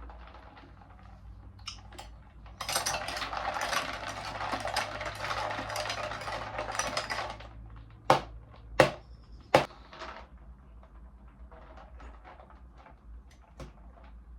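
Crackling rustle of food packaging being handled for about five seconds, then three sharp taps roughly two-thirds of a second apart.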